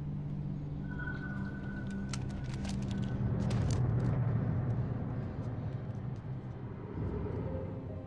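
A motor vehicle's engine running steadily, getting louder toward the middle, with a quick cluster of sharp knocks about two to four seconds in.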